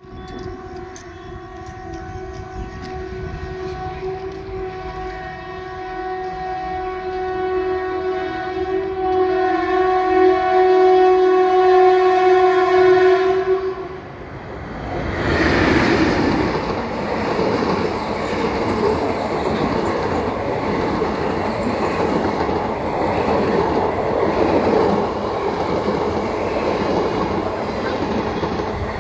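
An express passenger train's horn is held as one long steady blast, growing louder as the train approaches, then cuts off about halfway through. The train then passes close by with a loud, steady rush and clatter of wheels on rails.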